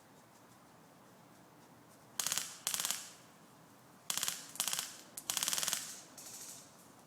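Airsoft guns firing several short full-auto bursts of rapid clicking shots, the last burst fainter.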